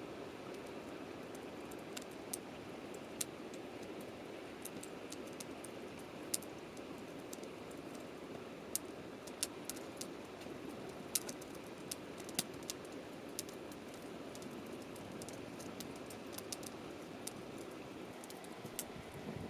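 Wood campfire crackling, with irregular sharp pops, about one or two a second.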